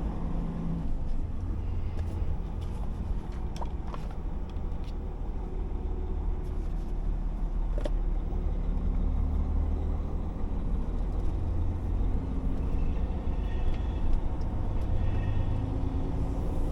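DAF XF 480 truck engine running with a steady low drone, with a few light clicks.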